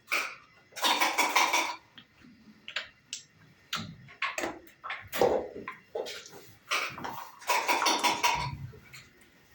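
Backgammon dice rattled in a cup and thrown onto the board, with hard clacks of checkers being moved between the throws. The rattling comes twice, about a second in and again about three-quarters of the way through, with single knocks in between.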